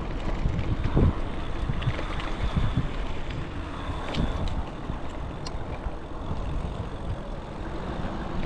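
Wind buffeting the microphone of a camera on a moving e-bike, a gusty rumble with steady rushing noise.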